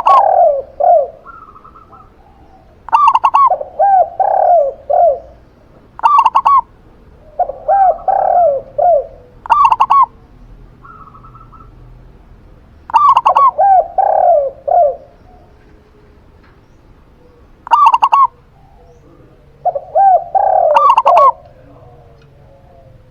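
Zebra dove and spotted dove cooing in turn, in repeated groups of a few arching notes every few seconds, some higher and clipped, some lower and longer.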